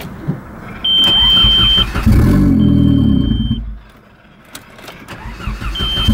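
Turbocharged Audi A4 1.8 engine being cranked by the starter with a steady high tone over it. It catches and runs for about a second and a half, then dies away, and near the end it is cranked and catching again: a hard start where the engine stalls after firing.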